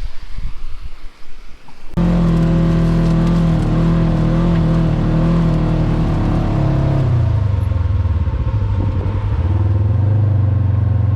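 A motor vehicle's engine running steadily. It starts abruptly about two seconds in, and partway through its pitch drops and then holds at a lower, steady note.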